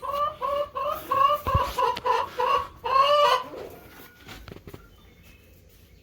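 A chicken clucking: a quick run of about ten short, pitched clucks over the first three and a half seconds, then it goes quiet, with only a few faint sounds after.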